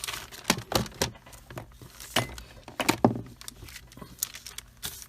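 Irregular clicks and knocks of craft tools and paper being handled on a worktable, as a cutting tool is picked up and put to use.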